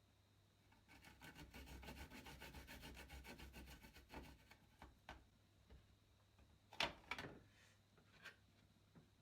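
A garlic clove being rubbed on a grater in quick, even rasping strokes for about three seconds, then a few separate light taps and scrapes.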